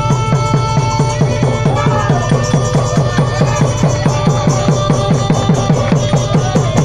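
Southern Thai Nora music: a fast, steady drumbeat under held tones, with a wavering melody line coming in about two seconds in.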